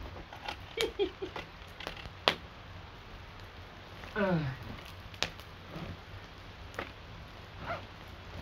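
Scattered sharp ticks and pops of the first heavy raindrops hitting around the microphone, mixed with the crackle of a campfire, over a low steady rushing. A man mutters briefly a few times.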